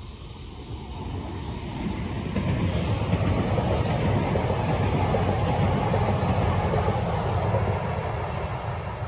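A train passing by on the line: a steady rumble of wheels on rails that swells over the first couple of seconds, holds loud, then begins to fade near the end.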